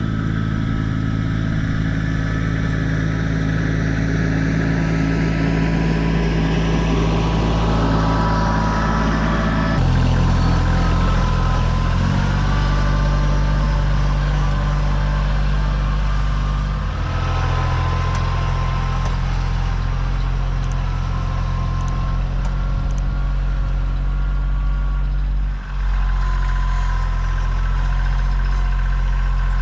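Kioti CK2610 compact tractor's three-cylinder diesel engine running steadily, its note shifting up and down several times as throttle or load changes, with a brief dip late on.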